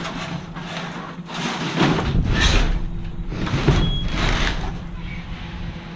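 Rustling and shuffling of trash being rummaged through in a dumpster, coming in a series of short swells, over a steady low hum.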